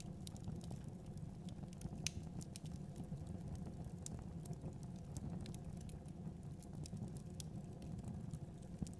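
Wood fire crackling in a fireplace: irregular small pops and snaps over a steady low rumble of the flames, with one sharper pop about two seconds in.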